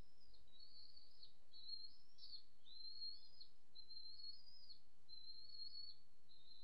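A bird calling over and over: a steady string of high, thin whistled notes, roughly one and a half a second, each ending in a slight rise or drop.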